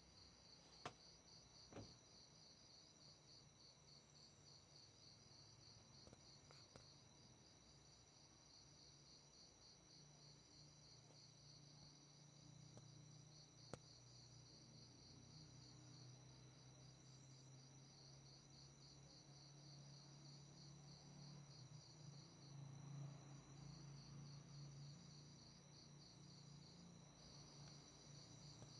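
Faint crickets chirping in a rapid, even pulse with a steady high whine above it, and a low hum that rises from about ten seconds in.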